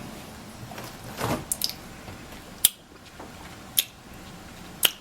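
A person sipping a drink and making small mouth and lip sounds while tasting it, with three short sharp clicks about a second apart in the second half.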